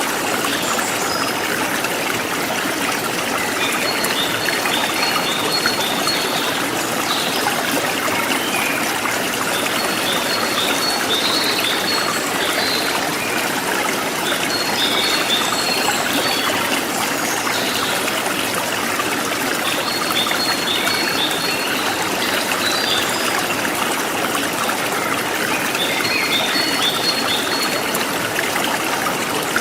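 River water flowing steadily. A short, high chirping phrase repeats about every five to six seconds over it.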